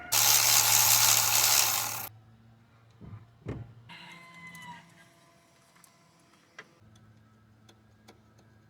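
A power ratchet whirs for about two seconds, spinning out the 12 mm bolt that holds the timing chain guide, and then stops. A couple of knocks and a short metallic ring follow as the bolt and guide come free.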